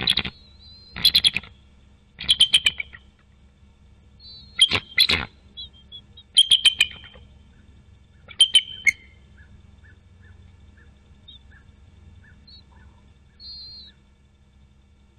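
Bald eagle calling: loud bursts of rapid, high chirping notes, about seven of them every second or two. After about nine seconds only a few faint chirps remain.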